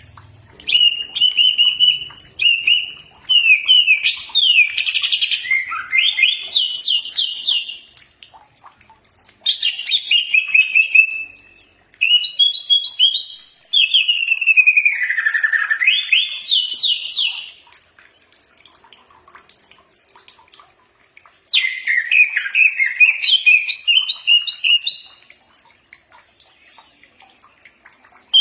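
Cucak ijo (green leafbird) singing: loud phrases of rapid repeated notes with rising and falling runs, four bursts of song separated by short pauses.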